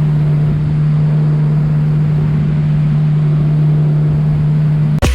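An engine running at a steady speed: a constant, loud low hum with no change in pitch. It cuts off abruptly near the end as music starts.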